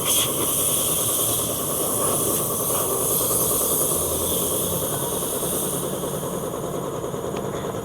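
Steady hiss over a low rumble, even in level throughout.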